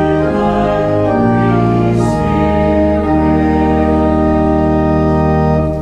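Organ playing sustained chords, changing chord a few times and then holding a long final chord that cuts off at the end.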